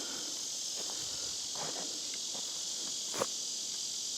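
Steady chorus of insects, a continuous high-pitched drone, with a few faint rustles and a single sharp click about three seconds in.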